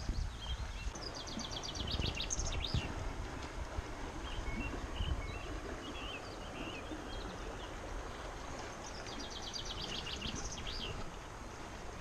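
A songbird sings a fast trill twice, once near the start and again near the end, with scattered shorter chirps in between. Under it runs the steady rush of a fast-flowing river.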